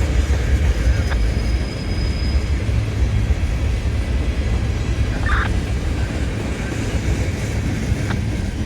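Freight train rolling past: a steady, low rumble of cars on the rails, with a faint high tone for about a second and a couple of light clicks.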